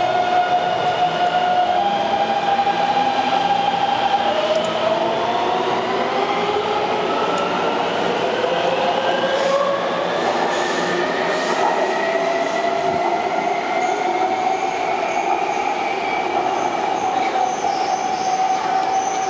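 Taipei Metro C321 subway train pulling out and accelerating: the traction motors' whine holds a steady pitch, then several tones climb together as it picks up speed. A higher hiss from the wheels on the rails joins in the second half.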